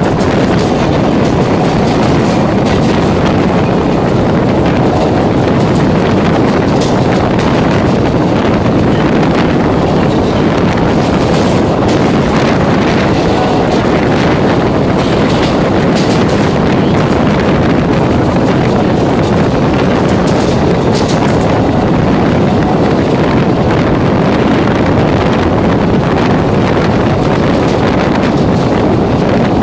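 Moving EMU electric train heard from on board: a steady rush of wind and rumble of the running train, with a few faint clicks.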